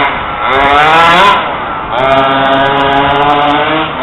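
Small two-stroke petrol engine of an FG Monster Truck 4WD large-scale RC model running under throttle. The revs climb in the first second, fall back, then hold steady for about two seconds before easing off near the end.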